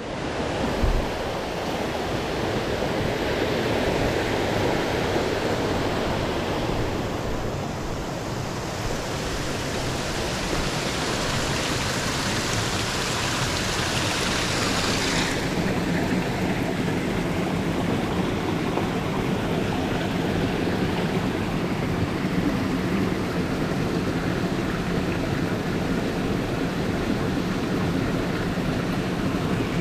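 Mountain stream rushing over rocks, a steady loud flow of water; about halfway through the sound changes abruptly, less hissy and deeper.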